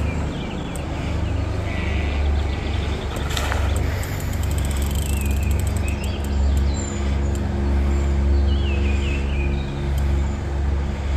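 Birds chirping now and then, short rising-and-falling calls repeated every few seconds, over a steady low rumble.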